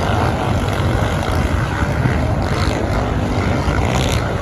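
Off-road racing motorbike and quad engines running on a sand track, a steady mechanical drone with a few brief swells.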